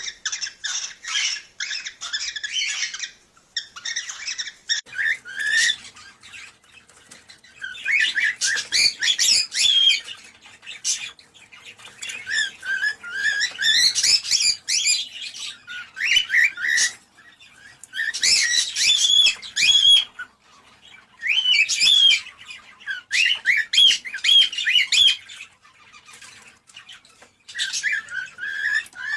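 Cockatiels chirping and warbling, fast runs of short rising and falling whistled notes in bursts of one to three seconds with brief pauses between them.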